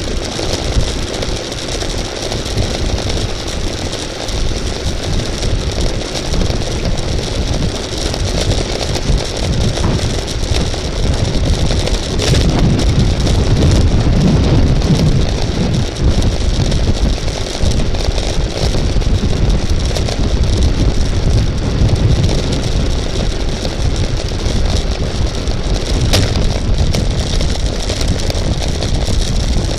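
Wind buffeting the microphone of a camera on a bicycle ridden at race speed: a steady, gusting low rumble over a lighter hiss.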